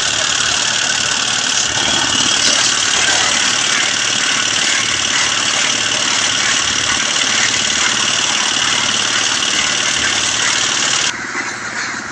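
An engine running steadily at road-repair work, loud and unchanging, until the sound drops abruptly near the end.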